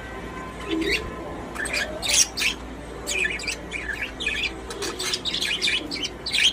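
Pet budgerigars chirping: a rapid run of short, high chirps that begins about a second in and grows busier and denser over the last few seconds.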